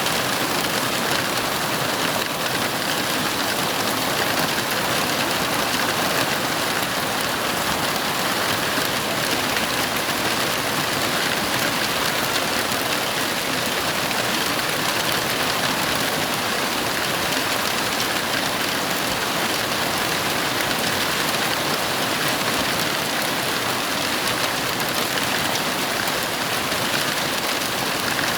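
Heavy rain falling, a steady, unbroken hiss that holds at the same level throughout.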